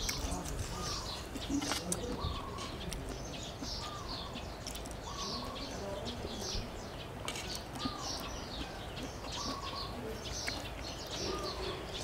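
Birds calling: one bird repeats a short whistled note about once a second over a steady chatter of higher chirps.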